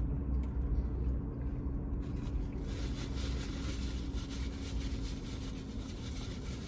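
Chewing a mouthful of cheese-covered fries close to the microphone: soft wet, squishy mouth sounds, over a steady low hum.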